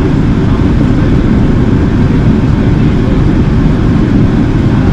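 Steady low rumble of in-flight cabin noise inside an Airbus A380 airliner: engine and airflow noise heard from the passenger cabin.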